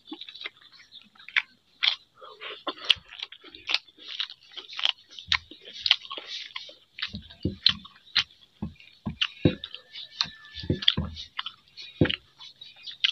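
A person eating soaked rice and fried vegetables by hand, chewing close to the microphone: a quick run of wet smacks and clicks, several a second.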